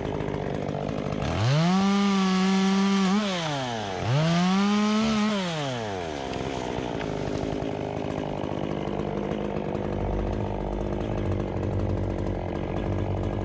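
Climbing chainsaw's small two-stroke engine idling, then revved twice for about two seconds each, dropping back to idle between and after. A low rumble joins near the end.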